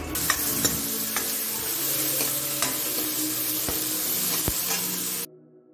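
Tadka of chopped tomatoes and green chillies sizzling in hot oil in a steel pan, stirred and scraped with a spatula that ticks against the metal now and then. The sizzling cuts off suddenly near the end.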